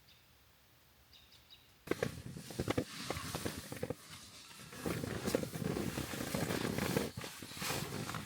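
Close rustling and handling noise with many scattered clicks, starting abruptly about two seconds in after a quiet stretch with a few faint high chirps.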